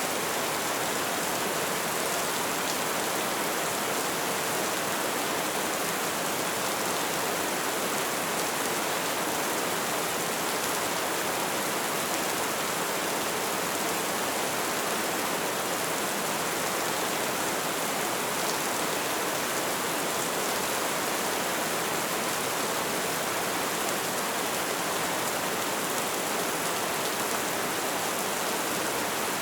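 Light rain falling steadily, an even hiss of many small drops with a few faint separate ticks.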